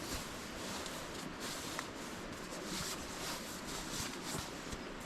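Faint rustling and handling noises of camping gear being moved, with a few small clicks over a steady hiss.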